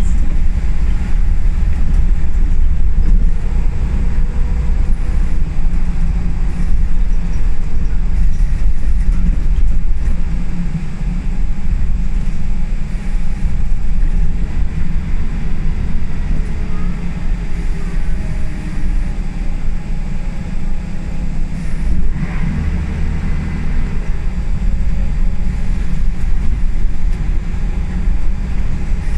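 On board a Scania L94UB single-decker bus on the move: the diesel engine and road noise make a steady low rumble, with a faint whine that rises and falls as the bus speeds up and slows.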